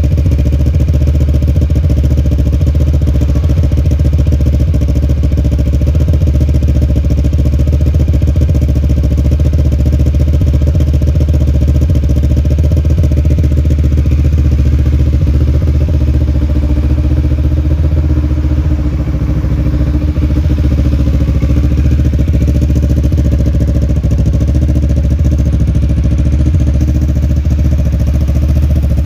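Kawasaki Z650's parallel-twin engine idling steadily after a cold start, with a deep, bassy note through a long Akrapovic exhaust. The level dips briefly about nineteen seconds in.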